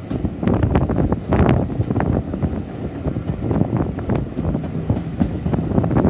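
Heritage railway passenger coach running along the line, a steady rumble with frequent irregular clicks and knocks from the wheels on the track, and wind buffeting the microphone held out of the window.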